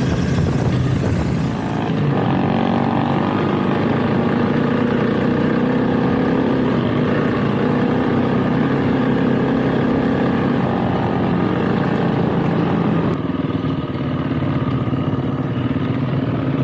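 Motorcycle engine running steadily while being ridden, its note drifting slightly up and down with the throttle.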